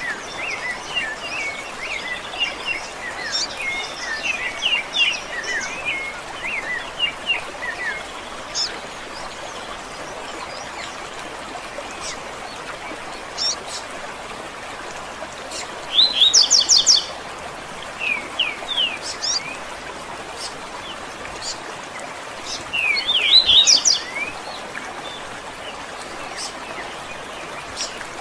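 Several songbirds chirping and trilling over a steady background hiss, with rapid chirps through the first few seconds and two louder trills past the middle and near the end.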